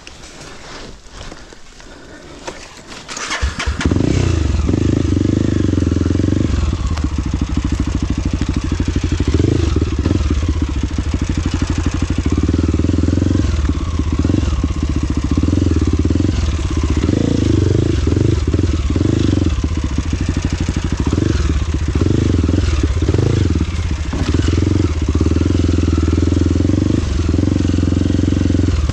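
A trail motorcycle's engine starts about three seconds in and then keeps running steadily.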